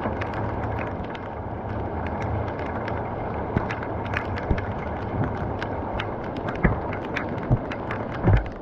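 Rain storm: steady heavy rain with many sharp drop impacts, and a few louder low thumps in the last couple of seconds.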